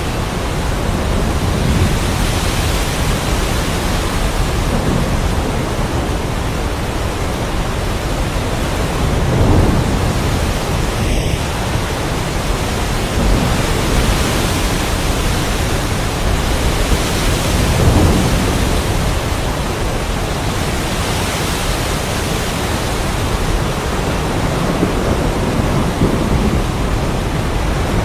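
Heavy rain falling in a steady, dense hiss during a thunderstorm, with low rolls of thunder swelling up about nine seconds in and again about eighteen seconds in.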